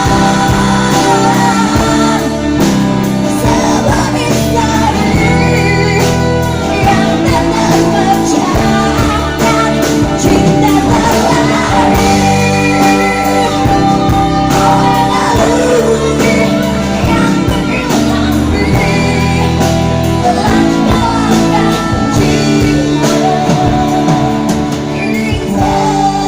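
Indonesian pop song: a female singer's voice carrying the melody over full band backing.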